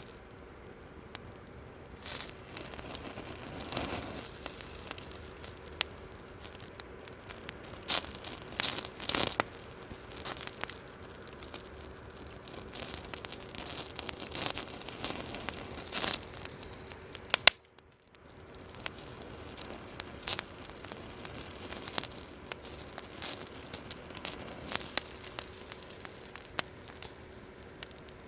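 Campfire burning, crackling with irregular sharp pops over a steady hiss, cut off briefly about two thirds of the way through.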